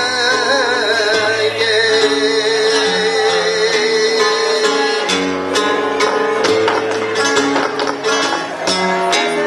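Latin-style band music with guitar and bass: a long wavering note, probably a singer's, is held through the first half. About halfway in, sharp strummed or percussive strokes join.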